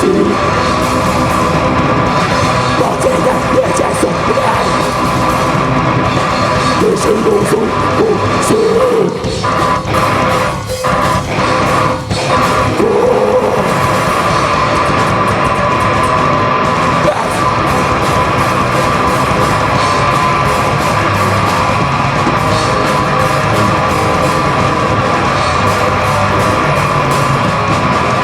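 Live heavy metal band playing loudly, with distorted guitars, drums and yelled vocals. Briefly thinner about ten seconds in.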